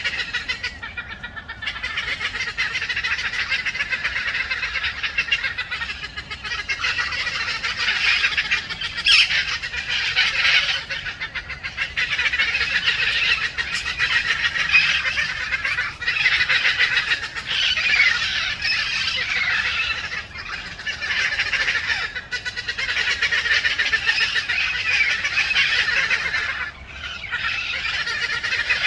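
A large flock of parakeets calling together: a dense, continuous chorus of many overlapping high-pitched screeching calls.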